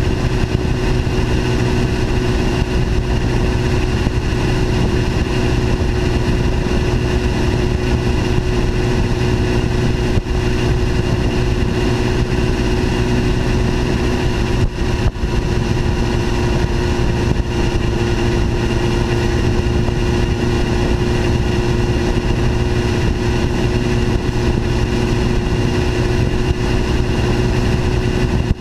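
A litre-class inline-four sport bike engine droning at a steady cruise, its pitch holding even. Wind and road rush on the bike-mounted microphone run underneath.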